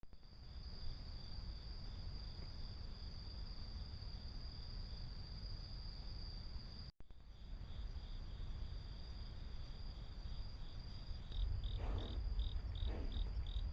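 Insects, crickets by their sound, chirping together: one steady high trill with a second insect pulsing just below it. It cuts out for an instant about halfway through, and in the last few seconds the lower chirps come out clearer at about four a second over a low rumble.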